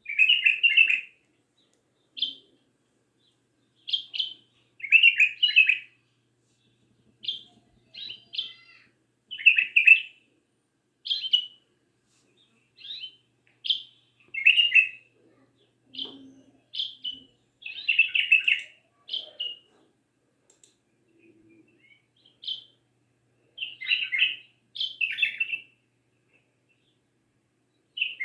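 Songbird singing in short chirping and whistled phrases, one every second or so, with brief pauses between them.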